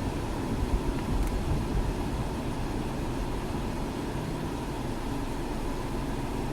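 Steady road and engine noise of a moving car, with a few faint knocks about a second in.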